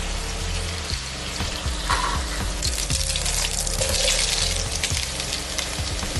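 Sliced mushrooms tipped into hot oil in a pan, a burst of sizzling about two and a half seconds in, over background music with a steady beat.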